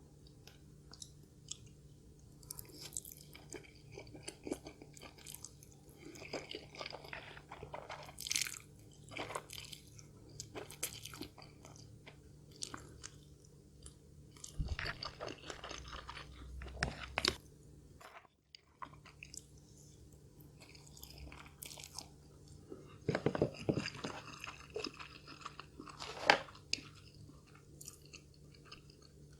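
Close-miked chewing and crunching while eating Indomie Mi Goreng fried instant noodles: irregular wet mouth clicks, with louder bouts of chewing about a quarter of the way in, around the middle and near the end.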